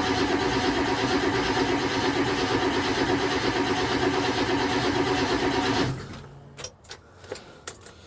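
Ford 7.3 L Powerstroke diesel being cranked by the starter on a cold start without catching. The cranking stops abruptly about six seconds in, followed by a few faint clicks.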